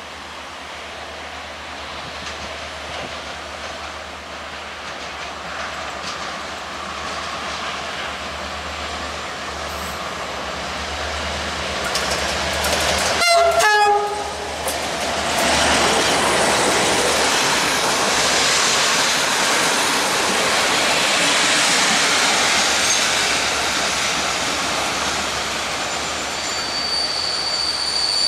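A GM-engined diesel-electric locomotive approaching with its engine getting louder, sounding a short two-note horn about halfway through. Its passenger coaches then roll past with wheels clattering over the rail joints, and a high wheel squeal starts near the end.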